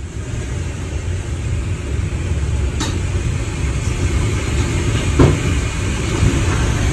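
Strong tornado wind blasting across the microphone as a steady low rumble, with two brief knocks about three and five seconds in.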